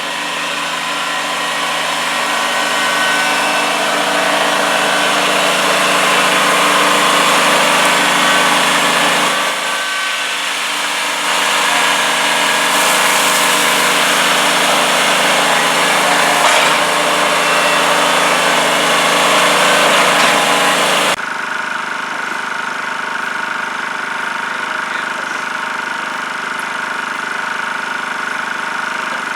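An engine or motor running steadily and loudly, with an abrupt change to a quieter, thinner running sound about two-thirds of the way through.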